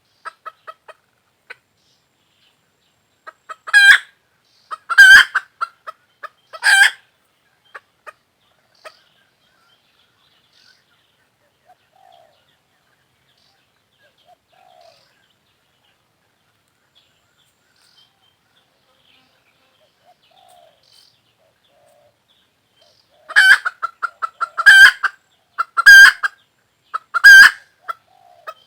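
Hen calling: three loud, short clucking calls about four to seven seconds in, then a long quiet stretch with only faint small sounds, and a quick run of loud clucks near the end.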